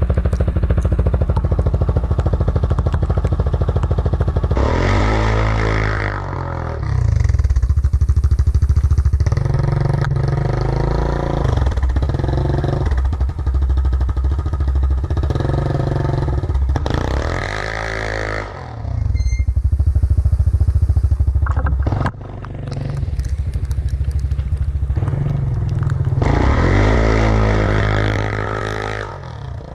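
Yamaha Grizzly 700 ATV's single-cylinder four-stroke engine running hard under load, revving up and dropping back again and again as the throttle is worked. It makes steep climbs in pitch about 5 s in, 17 s in and 26 s in, and the throttle is briefly closed twice in the middle.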